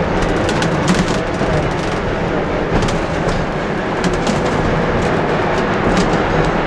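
Black Hills Central Railroad's 1880 Train running along the track: a steady rumble of wheels on rail with scattered sharp clicks.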